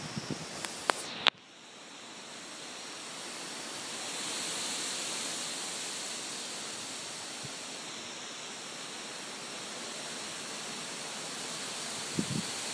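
Strong storm wind from a thunderstorm complex rushing steadily, with a few sharp clicks near the start. About a second in the sound drops off suddenly, then the wind builds back up over a few seconds and holds.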